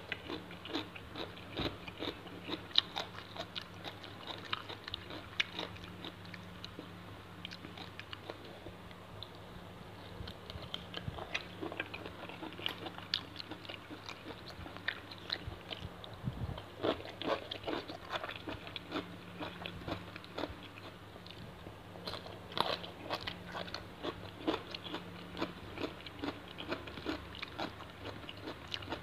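Close-up eating sounds: raw shrimp in fish sauce and fresh vegetables being bitten, crunched and chewed in irregular bites throughout, with wet mouth sounds. A low steady hum lies underneath.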